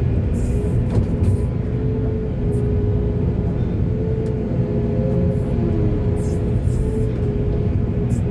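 Diesel engine of a working excavator running steadily: a low rumble with a steady whine above it.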